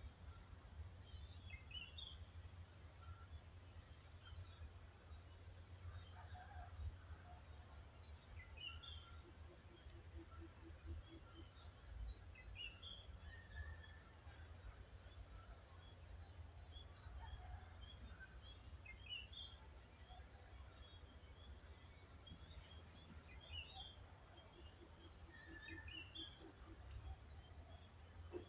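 Faint birdsong: several birds giving short, scattered chirps and calls, over a steady low rumble of outdoor background noise.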